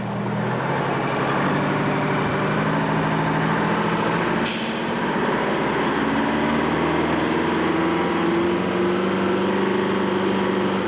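Detroit Diesel 8V71 two-stroke V8 of a fire truck running under load as it tries to drive forward out of a mud rut, its engine speed shifting and climbing in the second half.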